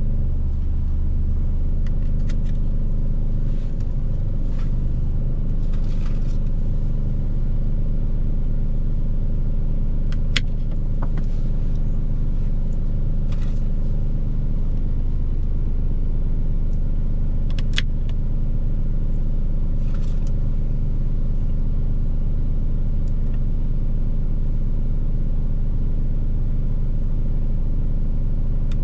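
Steady low hum of an idling vehicle engine, with about eight sharp knife cuts scattered through it as the tough ends of asparagus stalks are chopped off.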